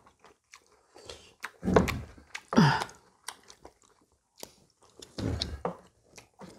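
People chewing and biting food during a meal, with scattered short clicks of chopsticks and a ladle against bowls and a pot. About two and a half seconds in there is a brief falling hum.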